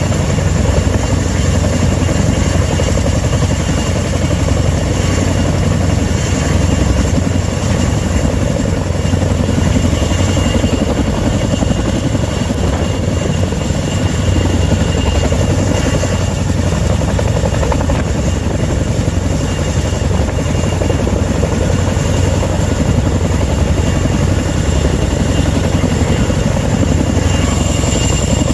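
Helicopter running loud and steady, a heavy low drone with a thin steady high whine above it.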